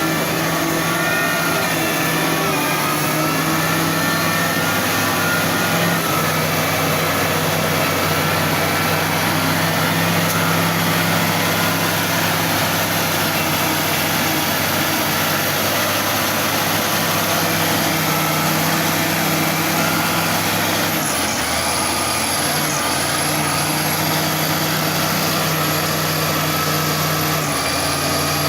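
XCMG ZL50GN wheel loader's diesel engine running steadily, with a thin high whine above it. The engine note drops and changes about three quarters of the way through and again near the end.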